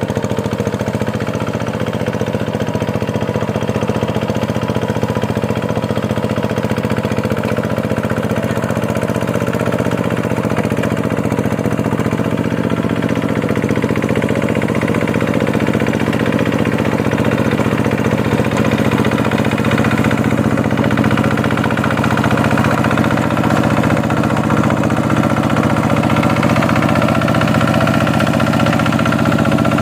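Two-wheel tractor's diesel engine running steadily while ploughing a deep, muddy paddy field, getting slightly louder toward the end.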